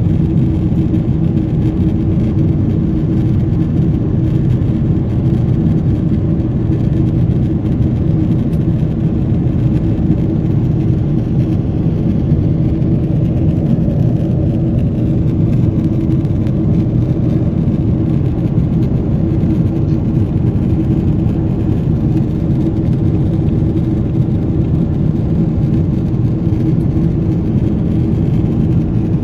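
Steady in-flight cabin drone of a Boeing 777 heard from a seat by the wing: GE90 engines and rushing airflow, with a constant low hum under it and no change in level.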